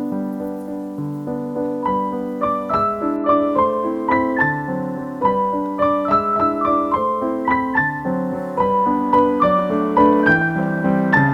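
Background piano music: a gentle melody of struck notes over chords, at a steady moderate pace.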